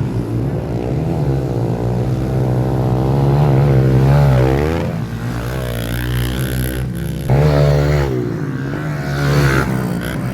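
Pit bike engine revving as it rides, its pitch climbing and falling with the throttle. It eases off about five seconds in, then surges sharply again a little after seven seconds.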